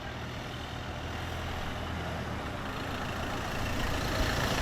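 A vehicle engine running, a steady low rumble that slowly grows louder.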